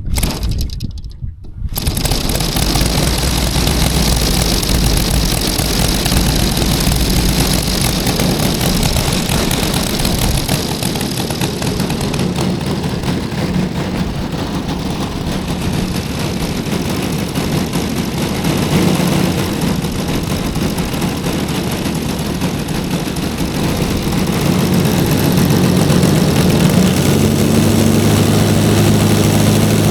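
Saito FG60R3 three-cylinder radial petrol engine on a quarter-scale RC Sopwith Pup catching about two seconds in, then running steadily with its propeller. Near the end the pitch rises as it is throttled up.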